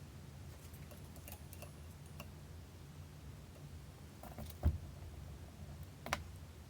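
Scattered light clicks and small metal taps of tools being handled at a workbench, with one dull thump about four and a half seconds in and a sharp click about a second later, over a steady low hum.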